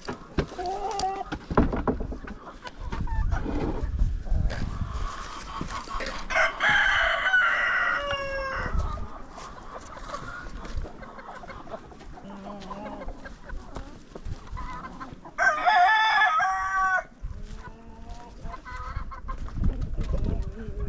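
A rooster crowing twice, first about six seconds in and again about fifteen seconds in, among hens clucking, with scattered low thumps and rustling.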